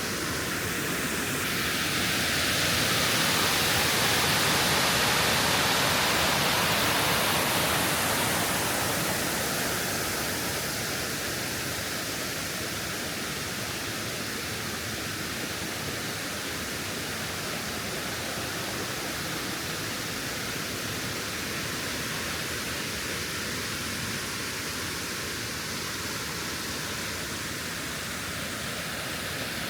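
Steady rushing of water, an even hiss that swells louder a couple of seconds in and eases back after several seconds.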